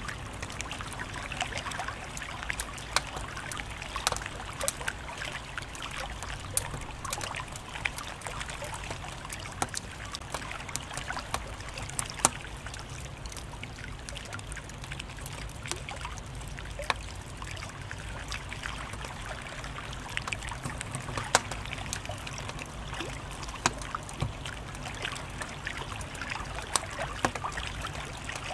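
Wood fire crackling: a steady hiss with frequent irregular snaps and a few louder pops scattered through.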